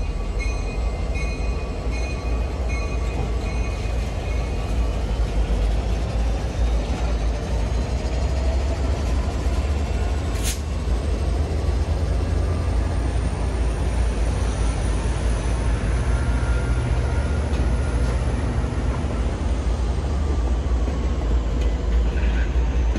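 MBTA diesel locomotives rolling slowly past, a steady heavy rumble of engines and wheels. A bell rings in an even beat for the first five seconds or so, and there is one sharp click about ten seconds in.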